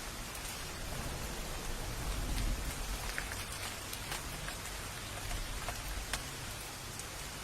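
Steady rain, an even hiss with scattered individual drops ticking sharply, and a low rumble swelling briefly about two seconds in.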